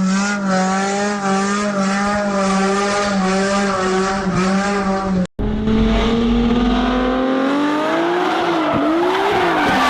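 Car tyres squealing in one long screech at a steady pitch, which cuts off abruptly about five seconds in. Then a second vehicle sound follows, its pitch climbing and then sweeping up and down.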